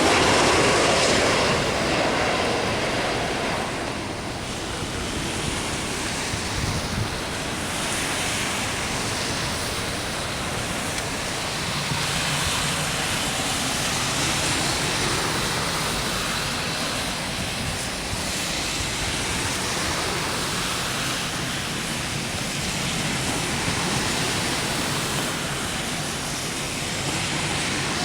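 Jet airliner's engines at takeoff power, heard from a distance as a steady rushing noise that swells and fades slowly.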